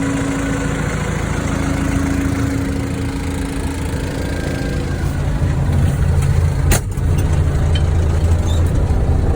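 Wheel loader's diesel engine running steadily, growing a little louder and heavier about five seconds in. A single sharp click comes near seven seconds in.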